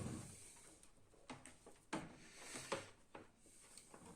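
A few faint clicks and knocks of hands handling parts and tools around an opened laser printer, spread over the few seconds.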